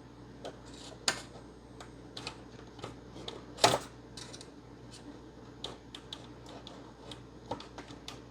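Scattered light clicks and taps from handling cables and connectors on a workbench as a power supply lead is disconnected, with one sharper click about three and a half seconds in. A faint steady hum runs underneath.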